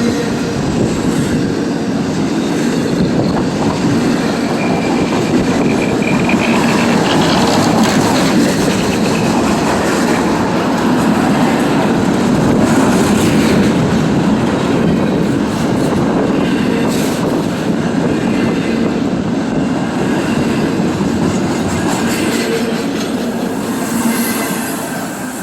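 Norfolk Southern intermodal freight train rolling steadily past, its steel wheels rumbling on the rails with a few clicks. A faint wheel squeal rises about a quarter of the way in.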